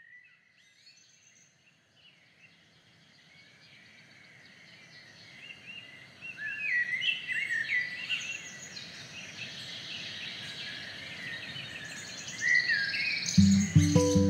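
Many birds chirping and calling in short rising and falling phrases, fading in from near silence over a soft background hiss and getting louder. About a second before the end, an acoustic guitar starts playing a repeating pattern of plucked notes.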